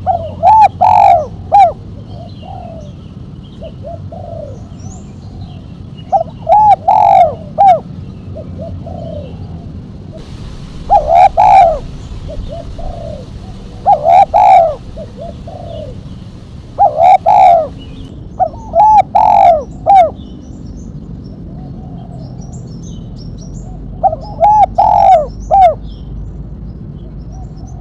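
Spotted dove (tekukur) singing: a short phrase of loud coos repeated seven times, each phrase a few notes long, with pauses between and fainter coos in the gaps.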